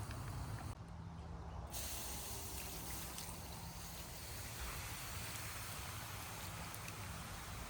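Steady outdoor ambient hiss with a low hum underneath and a few faint ticks; the high hiss drops out briefly about a second in.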